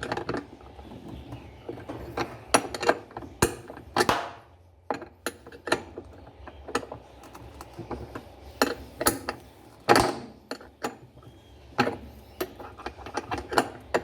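Irregular metallic clicks and clinks of a wrench working the bolt that fastens the basket to the spin tube of an Electrolux LTE12 top-loading washing machine, with a couple of louder knocks about four and ten seconds in.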